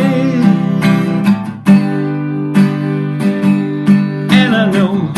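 Acoustic guitar strumming chords, with a fresh strum every half second to a second after a brief dip about a second and a half in.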